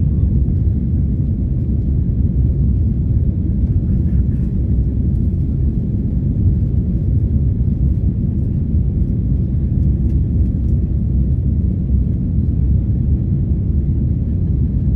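Airbus A330 jet engine and airflow noise heard inside the passenger cabin, a steady low rumble.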